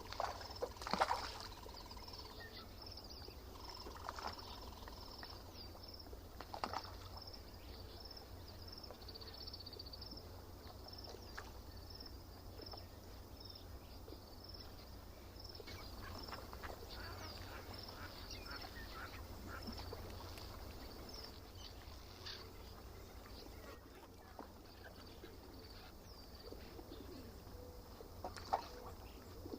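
Lakeside birds calling: one bird repeats a short high note about twice a second through the first half, with other, louder calls now and then over a steady low background hum.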